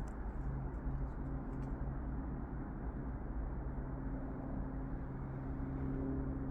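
Steady low rumble with a faint even hum, like a distant engine, under a few light, irregular ticks of footsteps on the trail.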